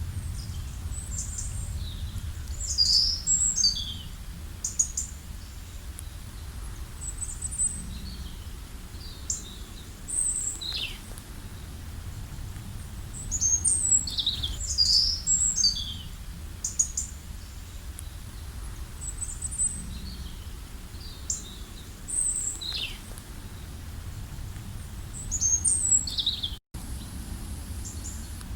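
Wild birds chirping and singing: many short, high calls and quick downward-sliding notes, coming in clusters every few seconds, over a steady low rumble. The sound drops out for a split second near the end.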